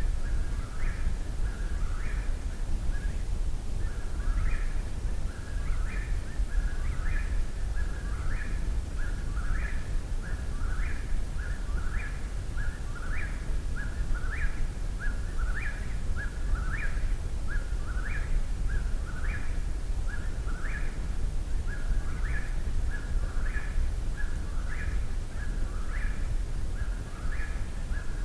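A night bird singing the same short phrase over and over, about once a second, over a steady low rumble.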